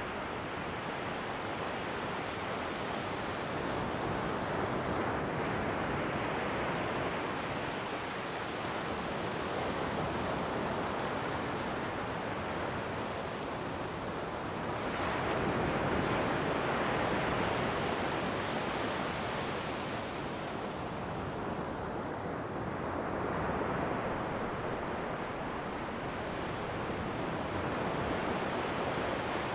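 Ocean surf: waves breaking and washing on the shore as a continuous hiss. It swells and eases every several seconds, with the strongest wave about halfway through.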